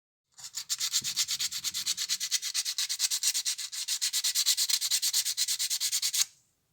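Rapid back-and-forth abrasive rubbing, like hand sanding or filing a small part, at roughly a dozen strokes a second. It starts about half a second in and stops abruptly near the end.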